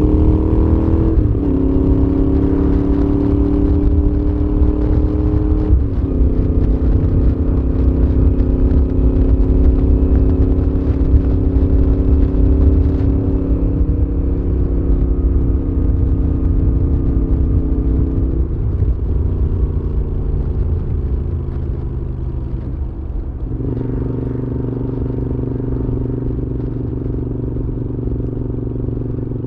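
Moto Guzzi V7's air-cooled transverse V-twin running through a Mistral exhaust while riding. The engine note drops sharply twice in the first six seconds, as on upshifts, then holds steady, eases off for a few seconds, and comes back strongly about 24 seconds in. A constant low wind rumble lies underneath.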